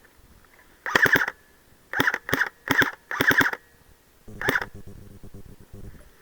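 Airsoft replica firing six short bursts of rapid shots over about four seconds, each burst a quick rattle of clicks. A lower, quieter noise follows for about a second and a half.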